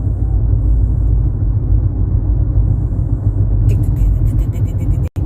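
Steady low rumble of a car rolling on the road, with a rapid, regular clicking from about three and a half seconds in, about seven a second: a bolt stuck in a tire tapping the pavement with each turn of the wheel. The sound cuts off abruptly near the end.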